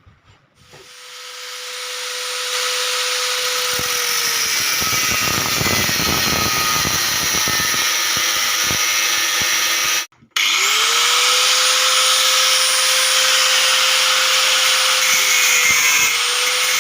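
Handheld electric power tool, drill-like, spinning up and running at speed. Its motor note sags under load with grinding cutting noise for a few seconds. It stops briefly about ten seconds in, then starts again and runs on.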